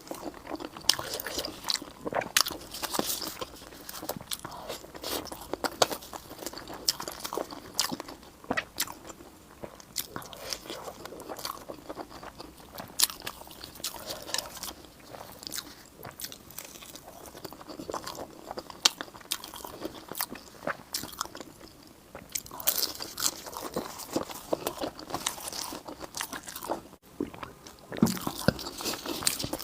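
A person eating with no talking: repeated crunchy bites and chewing, with sharp crunches coming irregularly every second or so.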